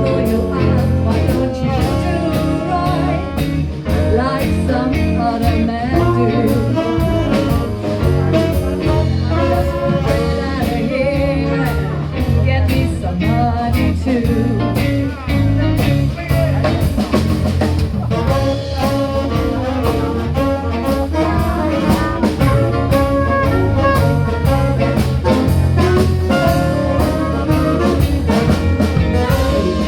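Live band playing a bluesy jazz number, horns over bass and drums with a steady beat.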